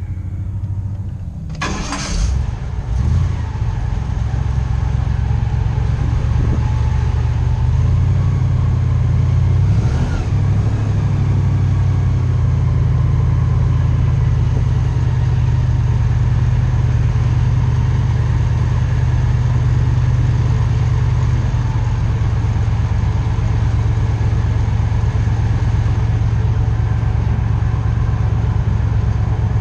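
Airboat engine and propeller surging about two seconds in, then running steadily under power with a loud, even drone.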